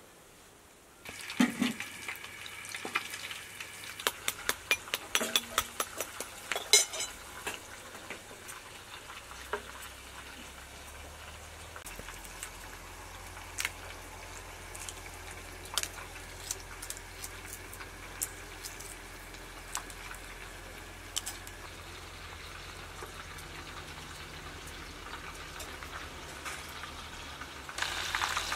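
Scattered sharp clicks and crackles over a low steady hiss, densest in the first several seconds. Near the end, shami kebab patties frying in hot oil: a loud steady sizzle.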